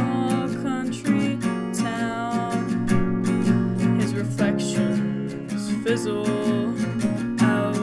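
Acoustic guitar strummed steadily under a solo voice singing an original song's melody in held, sliding notes.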